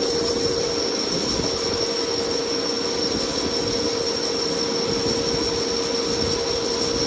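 CNC lathe running steadily through a turning cut, a constant machine noise with a high steady whine over a lower steady hum.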